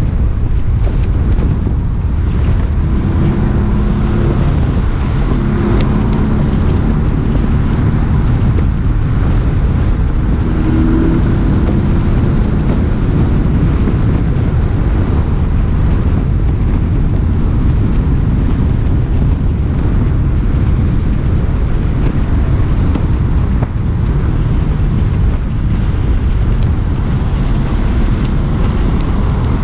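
Porsche 718 S's turbocharged 2.5-litre flat-four engine running as the car is driven, its pitch shifting up and down in the first dozen seconds, over steady wind and road noise.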